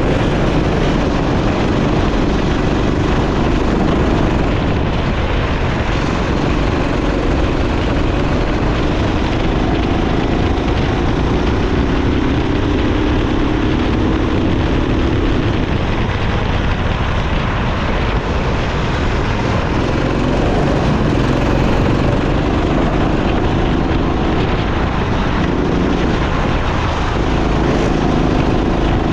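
Go-kart engine running at speed, its pitch climbing slowly and falling away about two-thirds of the way through before picking up again, over a steady rushing noise.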